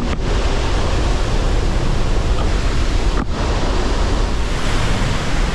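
Loud, steady rush of the Pailón del Diablo waterfall falling close by. The sound briefly drops out near the start and again about three seconds in.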